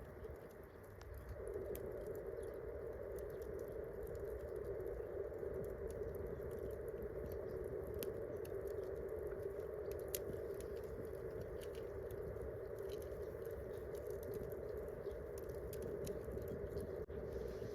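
Wood campfire crackling, with many small sharp pops scattered irregularly over a steady hiss.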